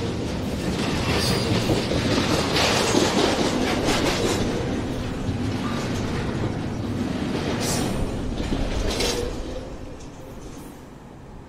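Double-stack container freight train rolling past close by, steady rail noise with sharp wheel clacks now and then. The sound drops off near the end as the train goes away.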